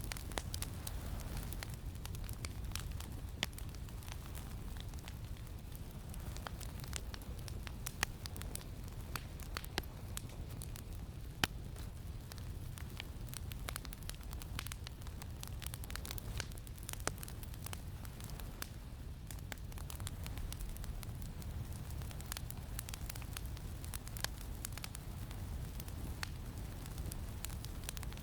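Campfire crackling, with frequent small irregular pops and a few louder snaps, over a steady low rumble of wind.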